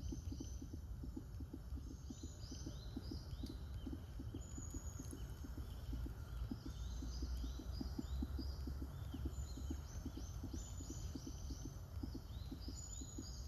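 Birds chirping over and over in short, high, falling notes that overlap in groups. Underneath is a steady low rumble and a regular soft low pulsing of about three to four beats a second.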